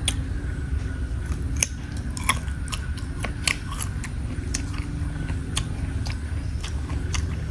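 Close-miked biting and chewing of crunchy raw fruit, with irregular sharp crunches about once or twice a second over a steady low rumble.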